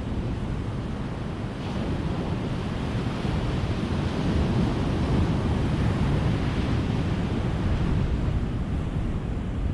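Ocean surf washing onto a beach: a continuous rush of waves that builds from about two seconds in to a fuller surge in the middle and eases off near the end.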